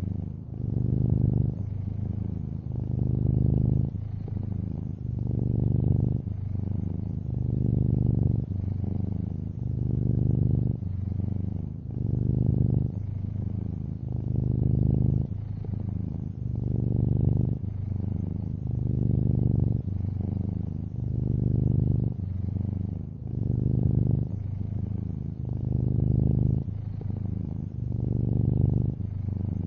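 Long-haired orange tabby cat purring steadily, a low rumble that swells and eases with each breath, about one breath every two seconds.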